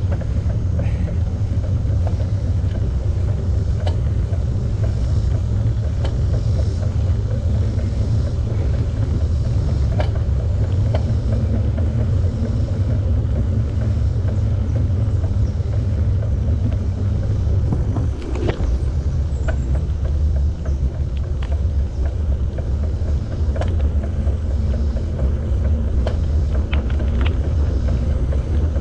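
Steady low rumble of wind buffeting the camera microphone and tyre noise while riding a bicycle, with a few faint ticks and rattles from the bike.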